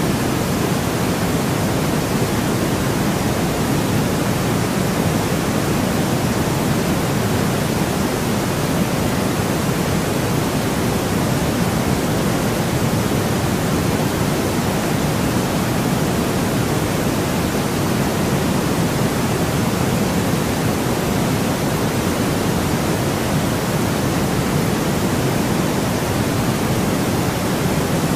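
Steady white noise: an even, unbroken hiss with no change in level or character, fuller in the low end than in the highs.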